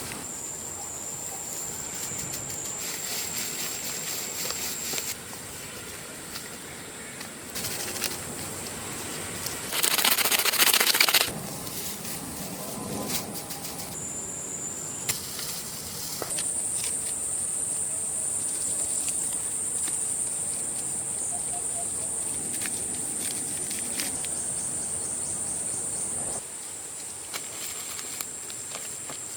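Steady high-pitched insect buzzing that grows louder and softer in steps. About ten seconds in there is a loud rush of noise lasting about a second.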